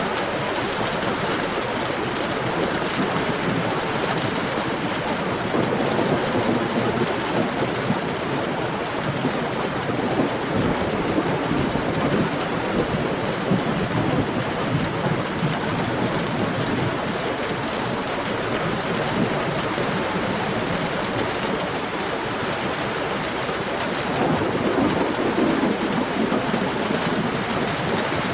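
Heavy rain falling steadily in a dense, even hiss. The lower part of the sound swells up twice, for several seconds about a fifth of the way in and again near the end.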